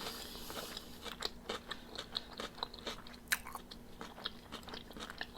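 Close-miked chewing of crispy fried chicken wings: a string of soft, irregular crunches and mouth clicks.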